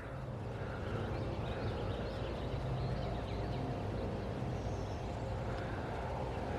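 Outdoor woodland ambience: a steady low hum with faint, scattered bird chirps.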